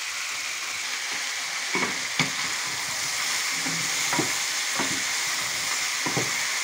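Suckling-lamb pieces and chopped tomato sizzling as they fry in a stainless steel pot, with a steady hiss. A wooden spoon stirs them, knocking and scraping against the pot about six times from about two seconds in.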